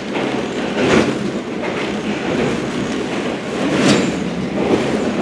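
Local train running along the line, heard from inside the carriage: a steady rumble of wheels on rails, with a few sharp clacks as the wheels cross rail joints, the loudest about a second in and near four seconds in.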